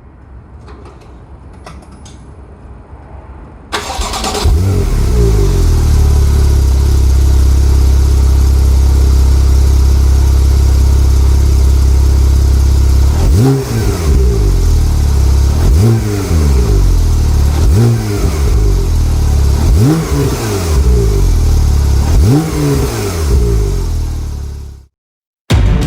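Porsche 911 Turbo S (991) twin-turbo 3.8-litre flat-six starting about four seconds in, then idling steadily. From about halfway on it is revved five times, each rev rising and falling, roughly two seconds apart.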